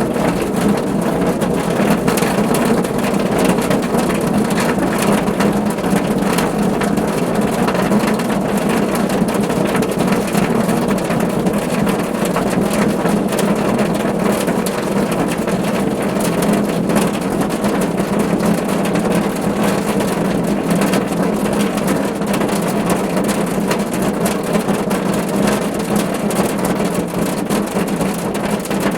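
Steady rain falling on a car roof: a dense, even patter of drops over a constant low rumble.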